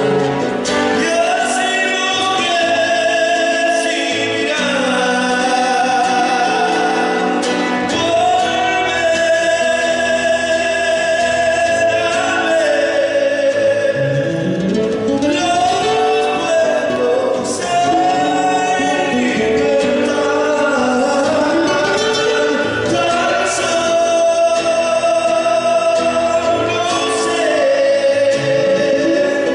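An Argentine folk song plays: voices sing long, held, gliding notes over instrumental accompaniment, with no words that can be made out.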